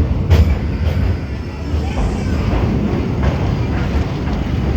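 Low, steady rumble of a moving train, with a couple of sharp clacks near the start.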